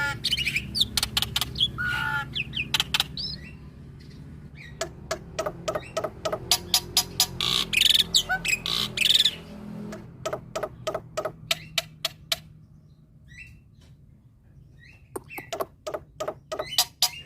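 Male black-winged myna (jalak putih) singing a varied song of short whistles, harsh notes and long runs of rapid sharp clicking notes. The clicking runs are strongest in the middle and start again near the end, with a quieter pause just past the halfway point.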